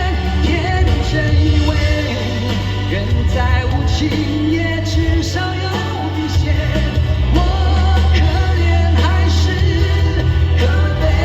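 Live pop-rock band music with singing: a full band with heavy bass and drums under a wavering melodic lead, played loud through a festival sound system.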